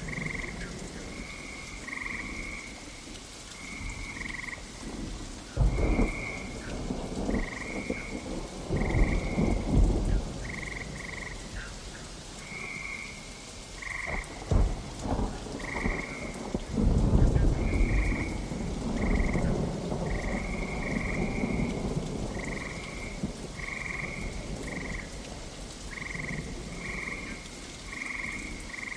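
Thunderstorm ambience: steady rain with several low rolls of thunder, the strongest about six, ten and seventeen seconds in. Frogs call throughout in short, repeated high croaks, about one or two a second.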